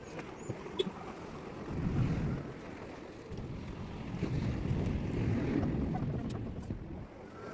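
Wind buffeting the microphone in gusts: a low, noisy rumble that swells about two seconds in and again for a couple of seconds from about four seconds in, with a few faint high bird chirps.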